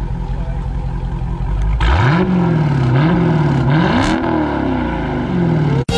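Dodge Challenger Scat Pack Widebody's 6.4-litre 392 HEMI V8 idling with a low rumble at the exhaust, then blipped three times about two seconds in. The revs rise and fall with each blip, and the third goes highest before it drops back.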